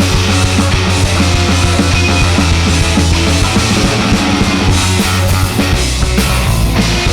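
Live punk rock band playing a song: loud electric guitar and bass with drums, steady throughout.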